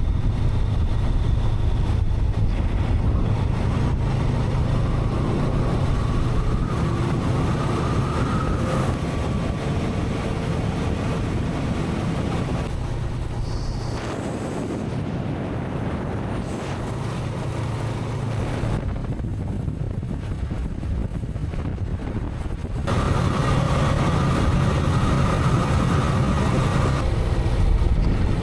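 Honda CB500X parallel-twin engine running under way, with wind noise on the microphone. The engine sound eases off for a few seconds past the middle and picks up again near the end.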